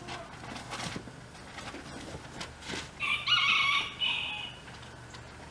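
A bird's call, loud and held for about a second and a half, starting about three seconds in, over a steady low hum and faint clicks.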